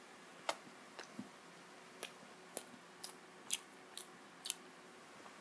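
Close-miked chewing of a steamed momo dumpling: faint, wet mouth clicks and smacks at uneven spacing, roughly two a second.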